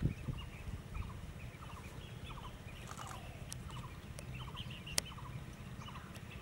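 Several birds calling over and over in short rolling trills, over a steady low rumble, with a single sharp click about five seconds in.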